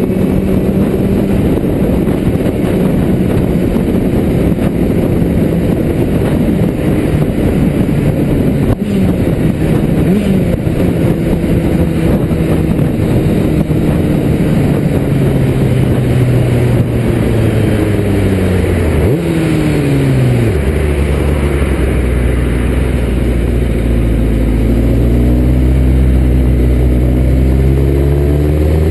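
The inline-four engine of a 1995 Kawasaki ZX-6R sport bike running under way, with wind and road noise rushing past. The engine note holds fairly steady, falls steeply about two-thirds of the way through as the bike slows, then rises again near the end as it accelerates.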